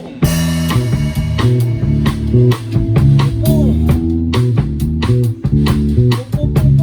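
A band's instrumental intro, with bass guitar, guitar and drum kit, starting abruptly just after a count-in and playing on with a steady beat.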